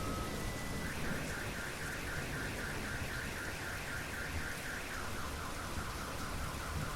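Car alarm cycling through its tone patterns over steady rain: alternating high and low tones, then from about a second in a fast repeating chirp that steps down lower about five seconds in.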